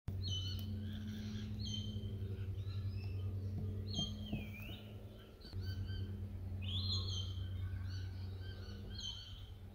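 Several birds calling in bushland: a busy mix of short chirps and whistled notes, some sliding down in pitch, over a steady low hum.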